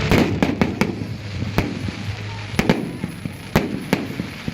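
Fireworks and firecrackers going off: a string of sharp bangs at irregular intervals, some louder than others, over a steady background of crackle.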